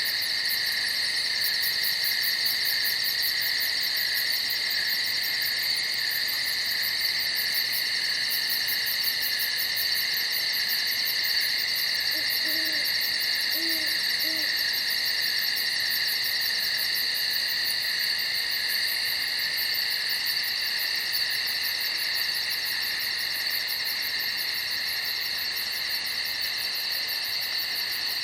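A steady, unbroken chorus of crickets chirping at night, with a fast pulsing high trill over it. A few faint low calls sound around the middle.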